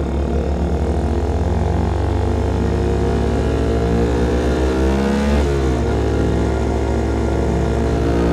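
A CFMOTO Papio SS motorcycle's single-cylinder engine running through a KO Lightning slip-on exhaust under acceleration. The revs climb for a few seconds, fall sharply about five and a half seconds in as it shifts up a gear, then climb again.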